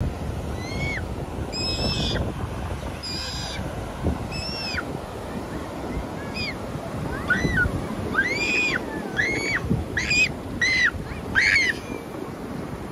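A bird calling over and over in short rising-and-falling notes, more often in the second half, over the steady wash of surf and wind.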